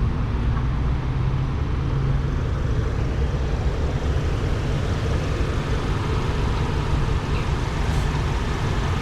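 Steady low rumble of a motor vehicle engine running, with traffic noise in the background.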